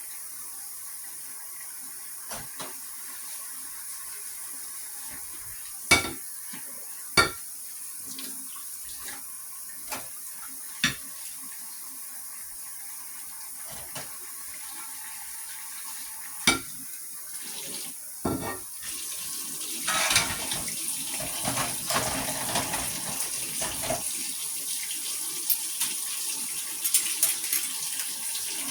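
Water running steadily from a tap, with a few sharp clinks like dishes knocking together. About two thirds of the way in, the rushing gets louder for several seconds.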